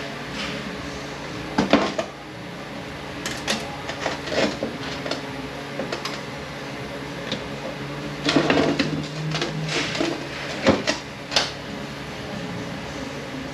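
Metal transmission parts clinking and knocking as a 9T65 clutch drum is taken apart by hand, in scattered irregular strikes with a busy cluster about eight seconds in, over a steady low hum.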